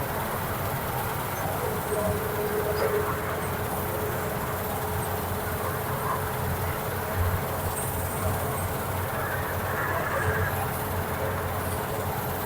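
Combine harvester running steadily, a continuous low mechanical rumble with a steady hum.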